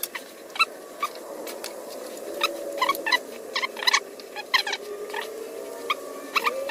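Irregular light metallic clicks and clinks as bolts and the new carburetor are handled and fitted to the mower engine by hand, over a faint steady hum.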